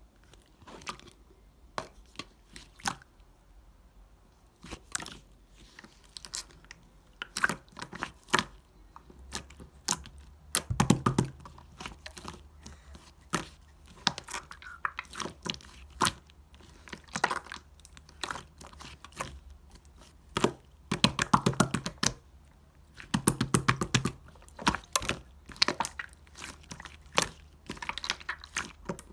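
Clear slime being squeezed and poked by hand, giving irregular sticky clicks and pops of trapped air, with bursts of rapid crackling about ten seconds in, again past twenty seconds, and once more a couple of seconds later.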